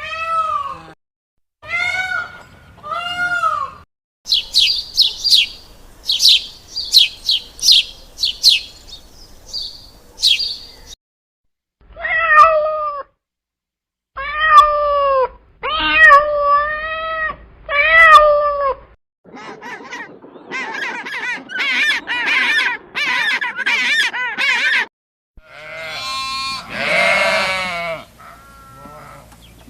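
A string of short domestic animal calls in turn: repeated meow-like calls, a run of high chirps, and near the end wavering bleats.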